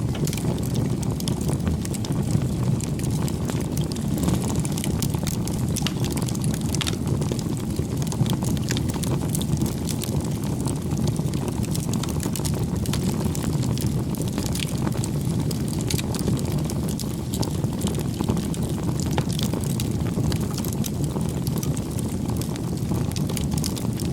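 Campfire burning: a steady low rush of flame with scattered small crackles.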